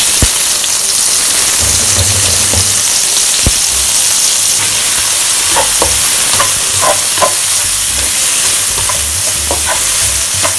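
Sliced onion, garlic and lemongrass sizzling loudly in hot oil in a wok, a steady hiss, with short clicks of a utensil stirring them, mostly around the middle.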